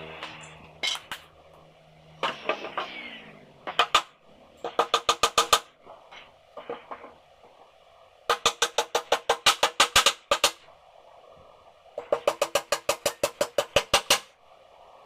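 Rapid runs of sharp, ringing strikes, about eight a second, in three bursts of one to two seconds each, with a few single knocks between.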